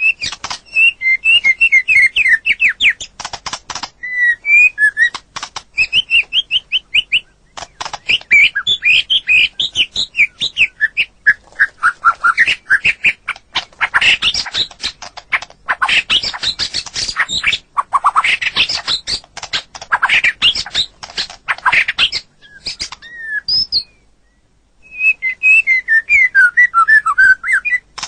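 White-rumped shama (murai batu) singing a long, varied song: fast runs of clear whistled notes that slide up and down, mixed with stretches of harsh chattering. There is a short break about four seconds before the end, then the whistles resume.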